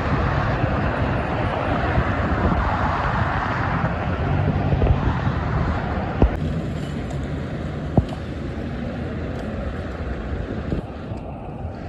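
Road traffic passing with wind buffeting the microphone, louder in the first half and easing off after about six seconds, with two short knocks.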